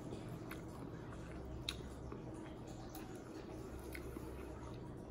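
Quiet close-up chewing of a mouthful of food, with faint scattered mouth and finger clicks as food is picked up by hand; the sharpest click comes about a second and a half in.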